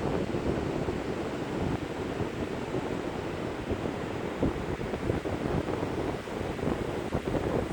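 Strong wind, about Force 6, buffeting the microphone: a loud, uneven rushing rumble that rises and falls with the gusts.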